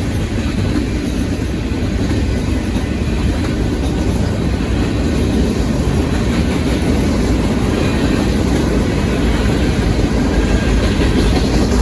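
Steady rolling noise of a manifest freight train's cars passing, steel wheels running on the rails.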